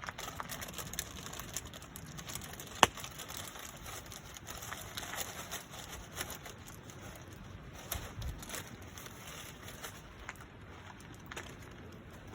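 Wood campfire crackling, with scattered sharp pops over a soft hiss and one loud snap about three seconds in.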